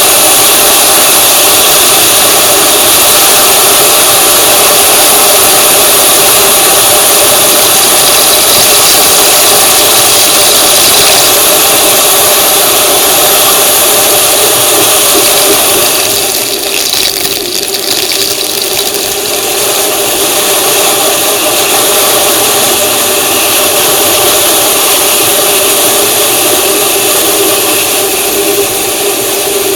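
A vehicle's engine running steadily, with loud road and wind noise over it; the noise eases briefly about sixteen seconds in.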